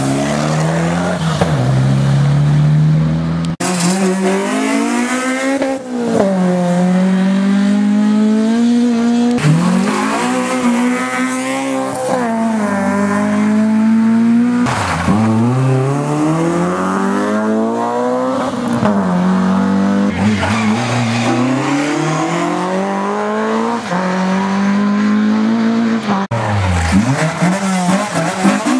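Rally cars driven hard on a stage, engines revving up and dropping back again and again with gear changes and lifts for corners. There is an abrupt change of car about three and a half seconds in and again near the end.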